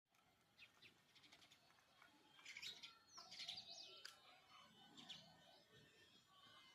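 House sparrow chirping: a series of short, faint chirps, the loudest cluster about three seconds in.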